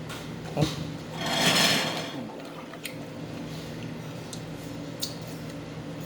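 Eating at a table: cutlery clicking against dishes a few times, with one louder rushing noise lasting about a second shortly after the first click, over a faint steady hum.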